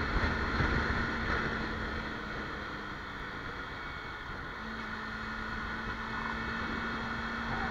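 Kawasaki Ninja 300's parallel-twin engine running at highway speed under wind rush; its steady note fades for a couple of seconds while the bike slows, then comes back about halfway through.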